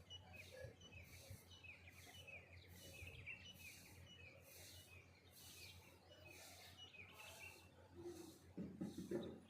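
Faint dawn chorus of small songbirds: many short, falling chirps overlapping throughout, over a soft hiss that pulses about twice a second. A louder, lower muffled sound comes near the end.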